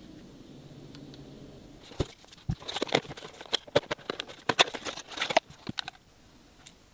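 Packaging being handled: a quick run of crinkling rustles and small clicks and taps starting about two seconds in and stopping about six seconds in.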